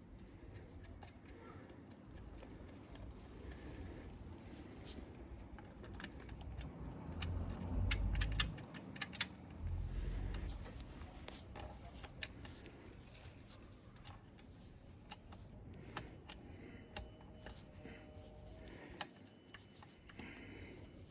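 Metal motorcycle parts and tools clinking and knocking as a part is fitted by hand: scattered sharp clicks and ticks, a quick run of them about seven seconds in, and two heavier low thuds about eight and ten seconds in.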